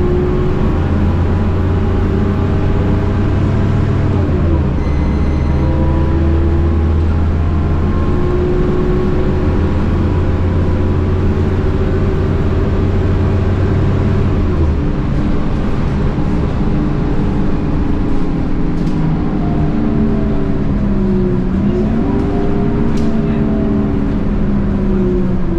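Scania K230UB bus's 8.9-litre DC9 five-cylinder diesel and ZF Ecomat 6HP502C automatic gearbox under way, with a deep engine drone and whining gearbox tones. The pitch dips briefly about five seconds in and again near the end, as at gear changes, and the heavy engine drone drops away about fifteen seconds in.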